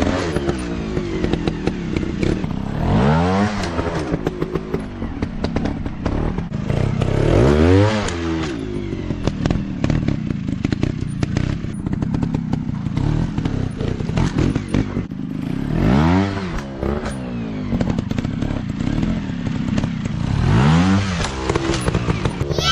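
Dirt bike engines revving up and falling back, four times over, running steadily in between.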